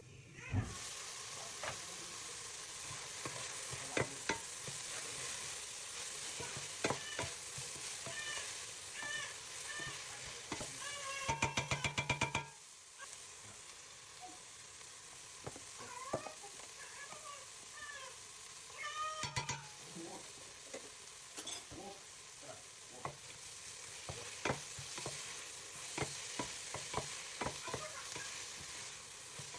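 Onions frying in hot oil in a pot: a steady sizzle with sharp clicks, as from a utensil stirring them. Short squeaky pitched sounds come at times, and a quick run of about a dozen pulses about halfway through.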